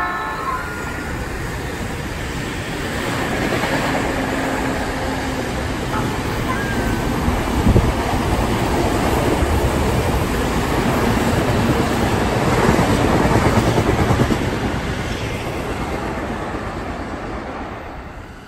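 Electric commuter train passing below the bridge, its running noise building over a few seconds, staying loud through the middle and fading away near the end, with a single clunk about eight seconds in.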